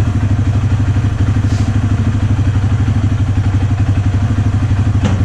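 Kymco MXU 450 ATV's single-cylinder four-stroke engine idling steadily with an even, rapid pulse. A short click just before the end.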